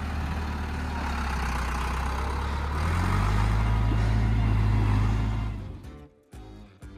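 Tractor engine running steadily, then revving higher and louder about three seconds in, before cutting off suddenly near six seconds. Background music with guitar comes in at the end.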